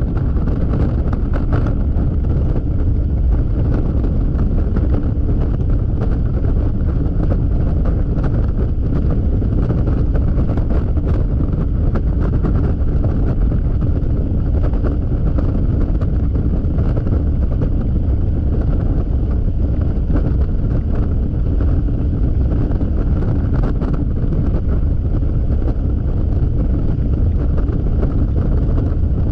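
Steady wind noise buffeting the action camera's microphone while riding a Yamaha XMAX scooter at freeway speed, with a faint steady drone from the scooter underneath.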